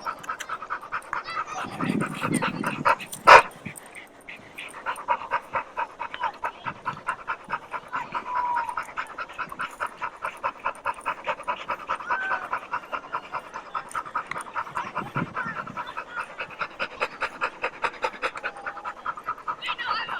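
A dog panting rapidly and steadily, about three to four breaths a second. A single sharp click sounds about three seconds in.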